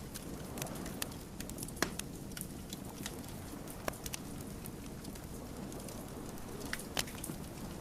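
Wood fire burning, with irregular sharp crackles and pops of the logs over a steady low rumble of the flames; the loudest pops come about two seconds in, near four seconds, and near seven seconds.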